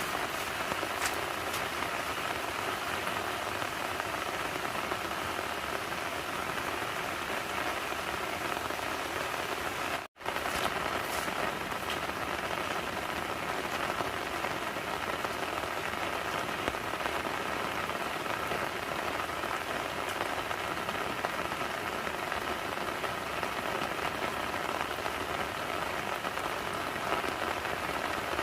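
Steady rain falling, an even hiss with scattered faint drop ticks, broken off for an instant about ten seconds in.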